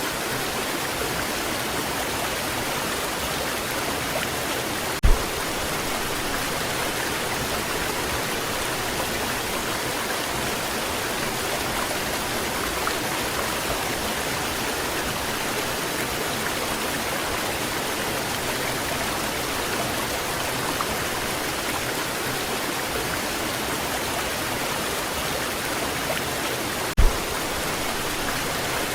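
Waterfall water rushing steadily. Two brief low thumps break through, one about five seconds in and one near the end.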